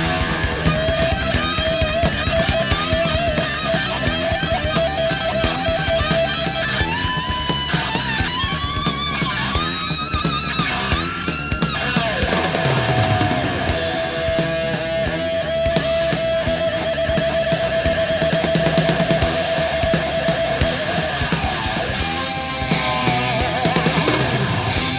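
Instrumental hard rock from a 1979 album recording: a lead electric guitar holds long notes with a slight wobble and, from about seven seconds in, climbs in a run of upward bends before settling back on a long held note, over bass and drum kit.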